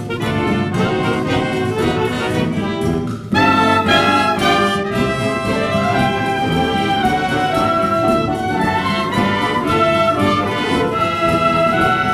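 Wind band playing, with trumpets and trombones out in front. The music thins briefly about three seconds in, then the full band comes back in louder with held brass notes over a steady rhythmic accompaniment.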